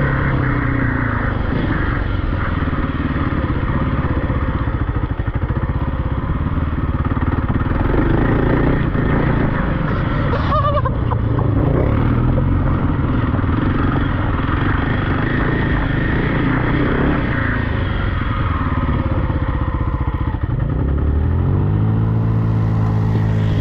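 Single-cylinder off-road engine running under varying throttle, its pitch shifting up and down, then rising steeply about 21 seconds in as it revs hard.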